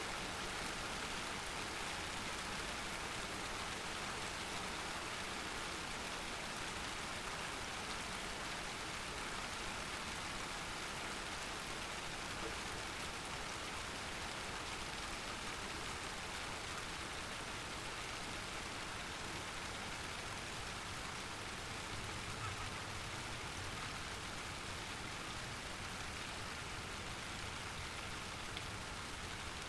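Steady rain falling in a thunderstorm, an even hiss of drops on surfaces.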